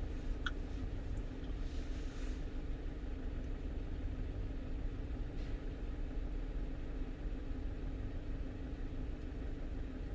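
Steady engine drone and road rumble inside the cab of a 1-ton truck while driving, with a light tick or two.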